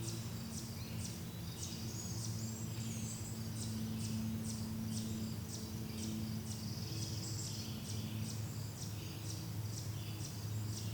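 Forest ambience of birds chirping and calling at a high pitch, with a regular chirp repeating about twice a second like a cricket, over a low steady drone.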